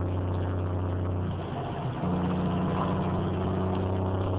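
Semi truck's diesel engine running with a steady low drone, heard from the cab. The drone drops away briefly about a second and a half in and picks up again with a sharp click about two seconds in.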